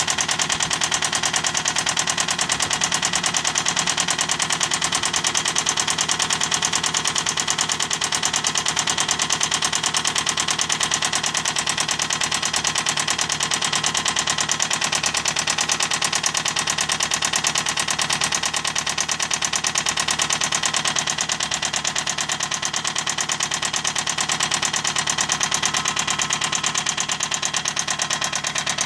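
Toyota Camry engine running with a fast, steady, metallic knocking that keeps time with the engine, which the owner takes for rod knock.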